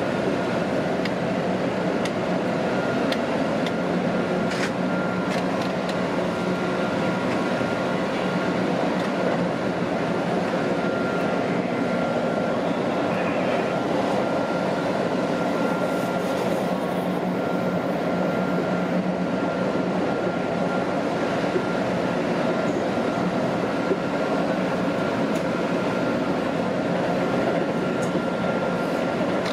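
Keihan electric commuter train running at steady speed, heard from inside the driver's cab: a steady rumble of wheels on rail with a thin, steady whine and a few scattered clicks.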